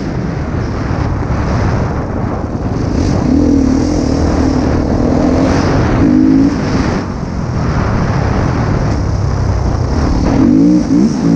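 Husqvarna TC 250 motocross bike's engine being ridden hard, its pitch rising and falling repeatedly as the throttle is opened and closed.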